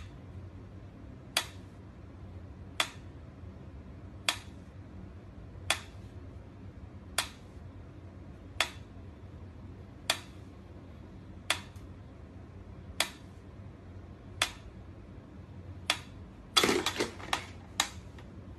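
Mechanical pyramid metronome ticking slowly and evenly, about one sharp tick every second and a half. Near the end comes a quick cluster of several louder knocks and clatter.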